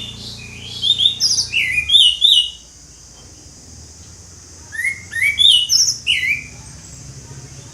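Orange-headed thrush singing loudly in two phrases of quick, varied whistled notes, with a pause of about two seconds between them.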